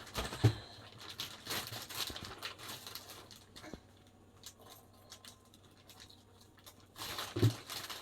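Plastic packaging rustling and crinkling as vegetables are handled and packed, with light clicks, and two louder knocks, one about half a second in and one near the end.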